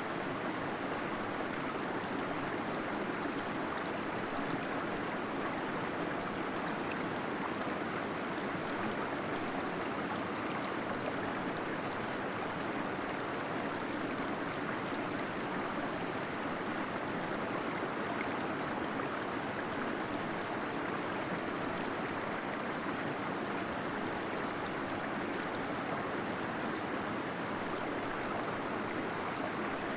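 Small waterfall splashing and gurgling in a cave, a steady, even rush of falling water.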